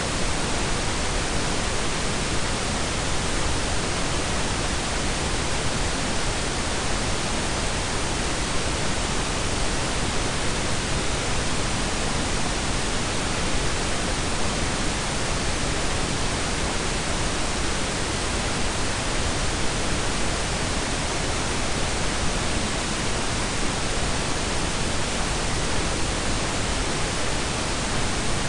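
Steady synthetic blend of pink and brown noise: an even, unchanging hiss with a deep rumble beneath it.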